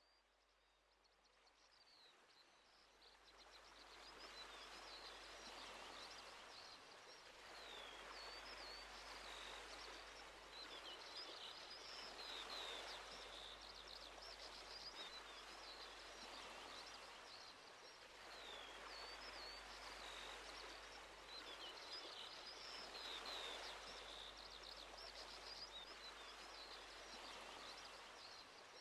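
Waves washing in slow swells, rising and falling every few seconds, with small birds chirping high over them throughout. The sound fades in over the first few seconds.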